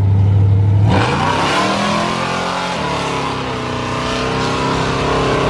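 A loud motor vehicle engine droning low for about a second, then accelerating hard: its pitch climbs, drops once around three seconds in as it shifts gear, and then holds a steady higher note as it pulls away.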